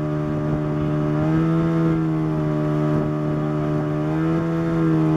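Motorboat engine running steadily under way, a low hum with a slight wavering in pitch.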